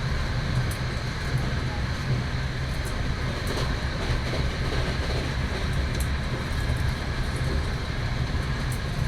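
Passenger train running along the track, a steady low rumble with faint scattered high ticks.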